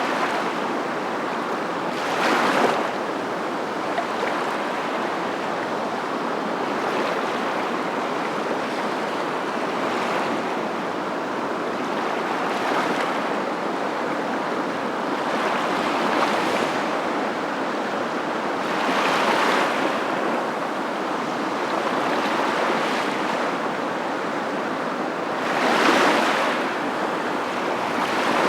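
Steady rushing of waves, swelling every few seconds as each one breaks, with the loudest swells a couple of seconds in and near the end.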